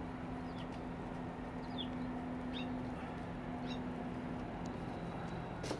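A small bird chirping: short high notes about once a second, over a steady low hum. A sharp click comes near the end.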